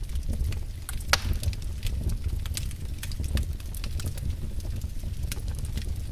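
Wood fire burning in a fireplace, crackling with irregular sharp pops over a low steady rumble. One louder pop comes about a second in.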